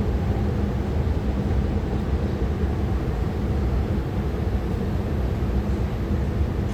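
MTR Tuen Ma line IKK-Train running between stations: a steady rumble of wheels and running gear with no distinct events.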